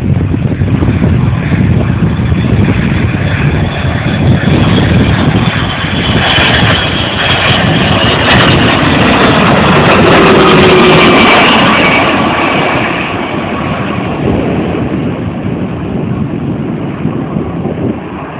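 Delta Boeing 757-200 twin jet engines passing by: the engine noise swells to its loudest about ten seconds in, with whining tones that slide down in pitch as the plane goes past, then fades.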